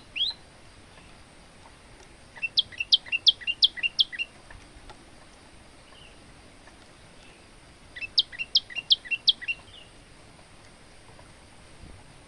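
Male olive-backed tailorbird singing. A short rising call comes right at the start, then two bursts of rapid, sharp notes about six seconds apart, each bird alternating high and lower notes.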